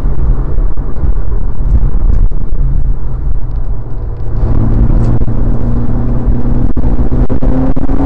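Mitsubishi Lancer Evolution IX MR's turbocharged 2.0-litre four-cylinder, tuned to about 400 bhp, heard from inside the cabin under hard track driving. It runs at a steady note, eases off briefly about four seconds in through a corner, then pulls with revs climbing steadily.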